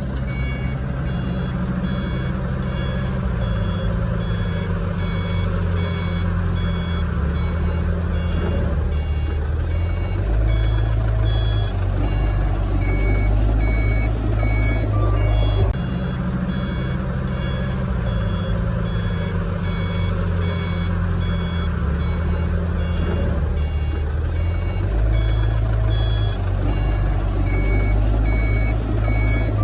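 A heavy machine's backup alarm beeping steadily at an even rate over the low rumble of a diesel engine, whose pitch steps up and down as it works.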